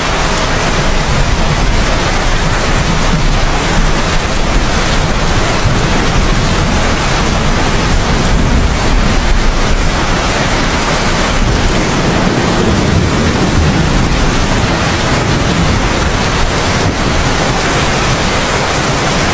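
Steady heavy rain, a dense even hiss with a low rumble underneath.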